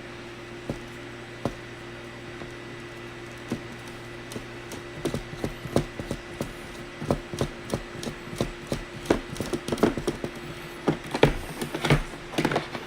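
Irregular light clicks and knocks of hands handling a small plastic cordless polisher while its side handle is screwed in. The clicks are sparse at first and come thick and fast over the second half, over a steady low hum.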